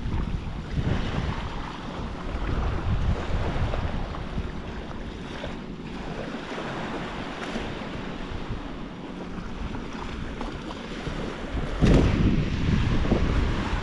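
Black Sea surf washing on the shore, with wind buffeting the microphone in low rumbling gusts that grow louder near the end.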